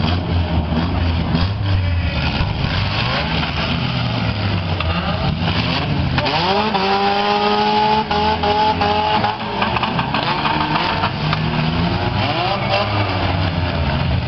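Several demolition derby cars' engines running and revving, their pitch rising and falling as the cars drive and ram. About six seconds in, one engine winds up sharply and holds high for a few seconds before dropping back.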